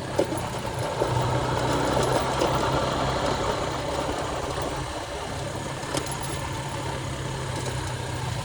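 Motorcycle engine running steadily with a constant low drone, under a broad hiss of noise; two short sharp clicks, near the start and about six seconds in.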